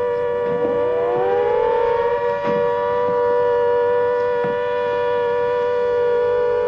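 Civil defence air-raid sirens sounding a steady two-note chord. About half a second in, another siren winds up from a low pitch, rising to join the chord by about two seconds.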